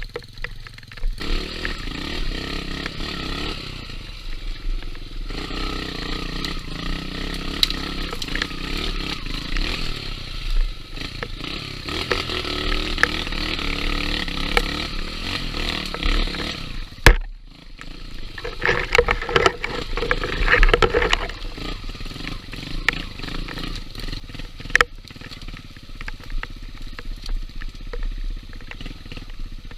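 Trail motorcycle engine running while ridden over a dirt trail, its revs rising and falling, with a burst of harder revving about two-thirds of the way through. A single sharp knock comes a little past halfway, and scattered clatter and scraping run throughout.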